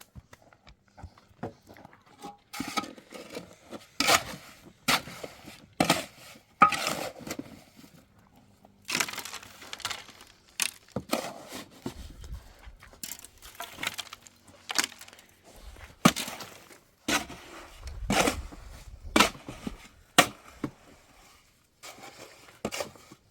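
Shovel or trowel scraping through and slapping wet cement mortar in irregular strokes, some sharp knocks and some longer scrapes.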